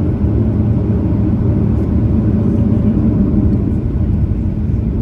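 Cabin noise of a Boeing 737-900ER with its CFM56-7B engines running: a loud, steady, low rumble.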